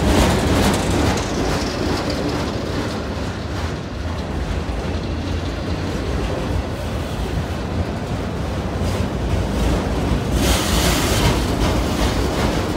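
Freight train of autorack cars rolling past close by: a steady rumble of steel wheels on the rails. About ten seconds in, a brief burst of higher hiss rises over the rumble.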